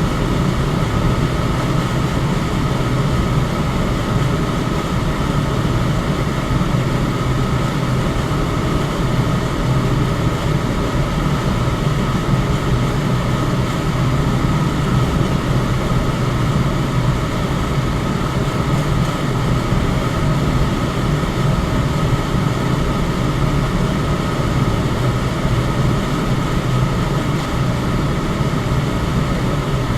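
Electric fan running steadily: an even rush of air over a low hum, with a faint steady higher tone, unchanging throughout.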